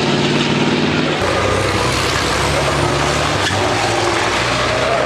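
Racing trucks' big diesel engines running hard on the circuit, with steady tyre and road noise. The engine tones change about a second in, dropping to a lower, deeper note.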